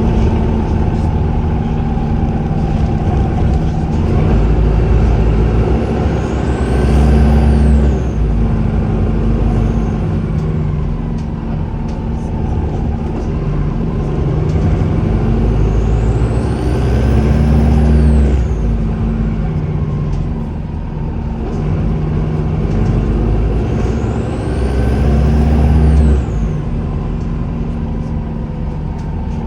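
Turbocharger whistle of a Volvo B5LH hybrid bus's diesel engine, rising to a high pitch and falling away three times, each time the engine's low drone swells.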